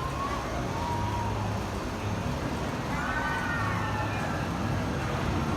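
Steady low outdoor background rumble, with faint distant voices rising and falling at the start and again about three seconds in.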